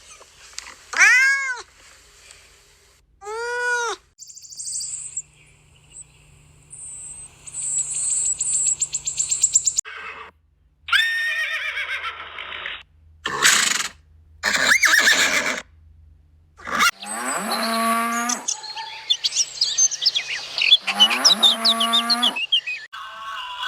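A string of different animal calls, one after another with short gaps: two rising-and-falling pitched cries near the start, a stretch of higher, noisier calls in the middle, and low, drawn-out calls near the end.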